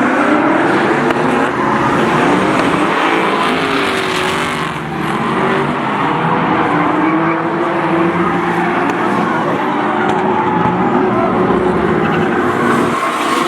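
Drift cars' engines revving hard, their pitch rising and falling, over the hiss and squeal of tyres sliding.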